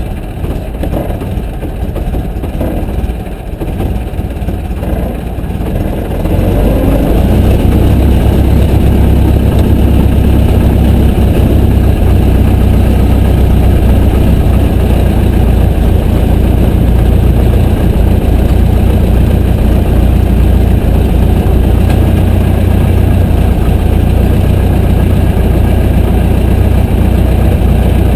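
Piper J3 Cub's engine and propeller running, with the throttle opened about six seconds in to a loud, steady drone.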